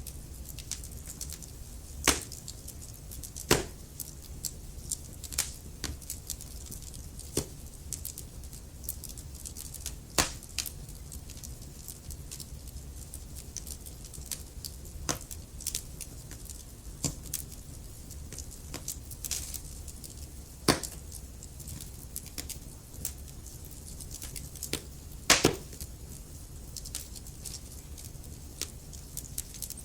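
Wood fire in a fireplace crackling: burning logs giving off irregular sharp pops over a steady low rumble of the flames. A handful of louder pops stand out, the loudest a quick double pop near the end.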